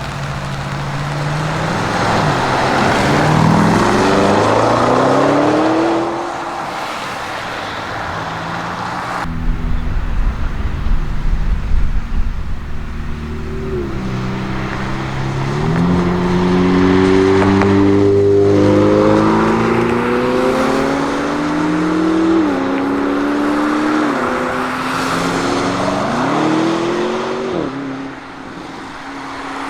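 ABT-tuned Audi RSQ8-R's twin-turbo V8 accelerating hard through the gears. Its pitch climbs and falls back at each upshift, once a couple of seconds in and several times in a row in the second half, with a stretch of heavy low rumble in between.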